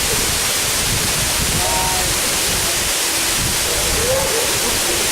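Waterfall rushing: loud, steady, unbroken water noise, with faint voices underneath.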